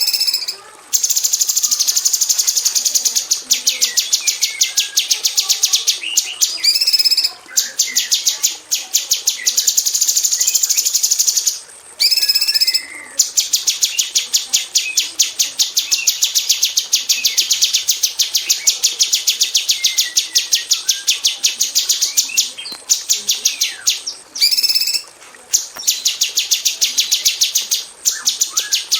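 Female cucak cungkok leafbird singing in its rapid-fire 'tembakan rapat' style: long runs of fast, evenly repeated high chips. These are broken by a few short pauses and several rising whistled notes.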